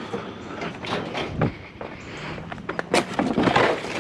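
Irregular clatter and knocks of tools and metal being handled and rummaged through, with a burst of scraping and banging near the end.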